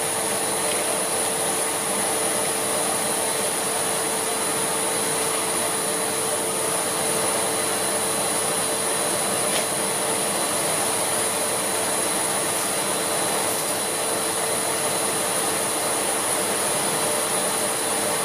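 Siemens Z6.0 Power 2500 W bagged cylinder vacuum cleaner running steadily, its floorhead being pushed over carpet. A constant rush of air with a steady high whine and a lower hum, unchanging throughout.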